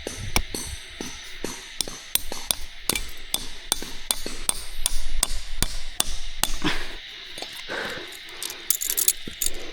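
Rapid, irregular sharp knocks, several a second, like hammering or chopping on wood, over a steady high-pitched insect-like drone.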